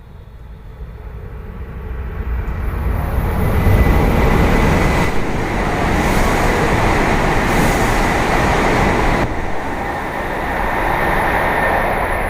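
E7/W7-series Shinkansen bullet train passing through a station at speed without stopping. Its rushing noise swells over the first few seconds, stays loud for several seconds as the cars go by, then eases slightly near the end.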